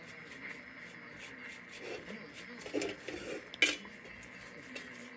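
Quiet handling of a freshly oiled steel lantern: faint scattered handling noises and one sharp metal clink about three and a half seconds in.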